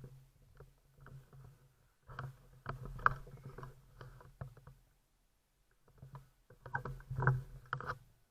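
Irregular rattling and knocking from a bike and its mounted camera being jostled, in two busier spells with a brief lull between, over a faint steady hum.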